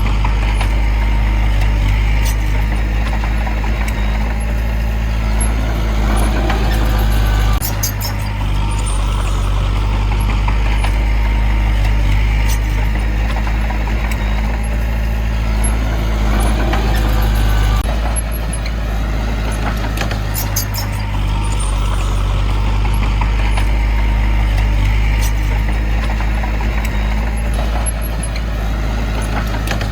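Heavy diesel construction machinery running steadily, with a low engine drone. The engine note changes abruptly twice, about eight and eighteen seconds in, with a few faint metallic clicks on top.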